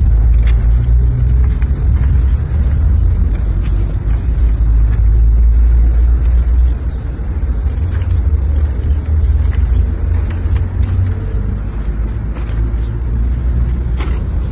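Heavy vehicle running, a steady deep rumble that eases a little about seven seconds in.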